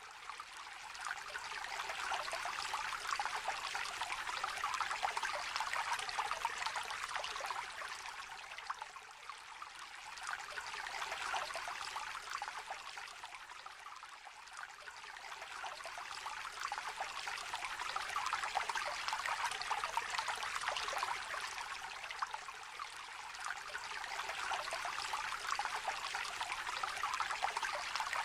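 Shallow river trickling and babbling over stones, a steady bright splashing that gently swells and eases every few seconds.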